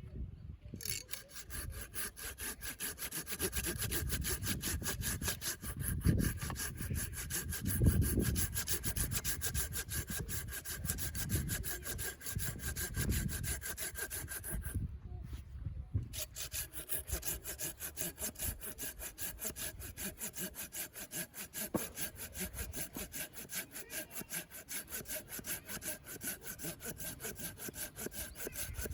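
Hand saw cutting through wood in steady, rapid back-and-forth strokes, pausing briefly about halfway through.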